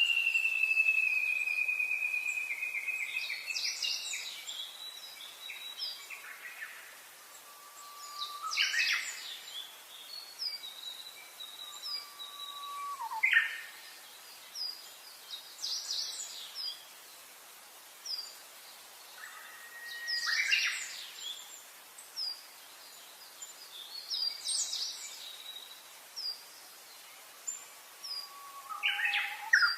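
Several birds singing, with clear whistled notes. A long whistle slides slowly down at the start and comes again near the end, and short chirps and whistles fall in between, over a light steady hiss.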